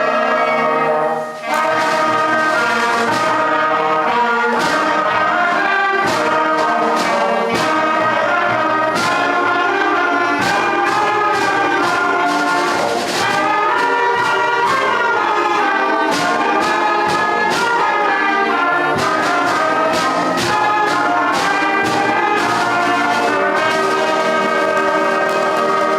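Upper primary school concert band playing a brass-led piece, sustained chords and melody with frequent short percussive hits.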